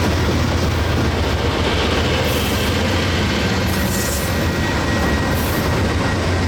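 Freight train rolling past close by: a steady, loud rumble of railcar wheels on the rails.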